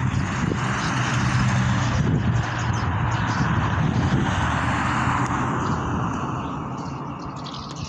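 A motor vehicle's engine hum and tyre noise, steady for several seconds and fading away near the end.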